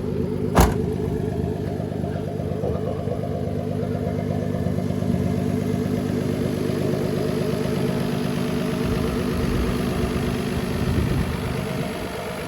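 Turbocharged BMW M50 inline-six idling steadily during its break-in, with one sharp knock about half a second in.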